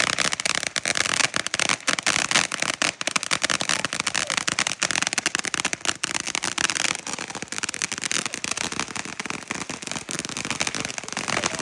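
Consumer fireworks crackling in a fast, unbroken string of sharp pops, easing a little after about seven seconds.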